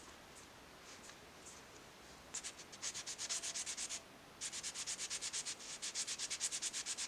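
Fine 1500-grit wet sandpaper rubbed back and forth by hand on the brass bolster of a pocket knife, in quick even strokes of about six a second. It is faint for the first two seconds, then comes in a short run, pauses briefly, and runs steadily on from there.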